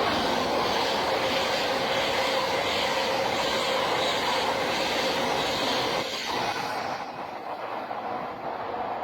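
A train passing through the station: a steady, loud rush of wheel and rail noise that eases off about seven seconds in as it goes by.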